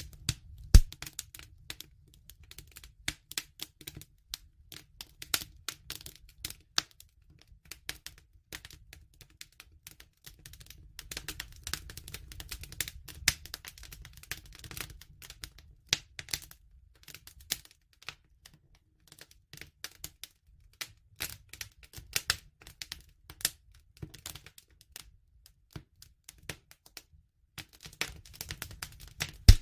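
Wood fire crackling, with irregular sharp snaps and pops over a soft low rumble of burning.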